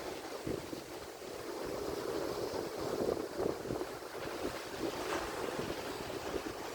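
Atlantic Ocean surf: waves breaking and washing in a continuous, surging rush of noise, with wind buffeting the microphone.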